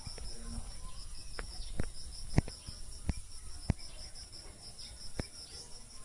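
Insects chirping: a steady high-pitched trill with a pulsed chirp repeating about five times a second. About six sharp knocks or taps cut through it, the loudest a little over two seconds in.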